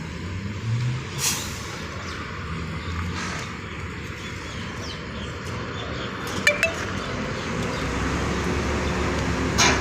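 Truck engine running steadily, with a few short sharp clinks about a second in, at six and a half seconds and near the end.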